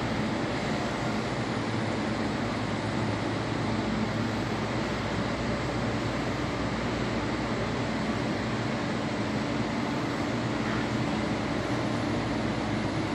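Steady rumble and hiss of an MTR East Rail Line R-Train electric multiple unit, with a low steady hum underneath that grows slightly stronger in the second half.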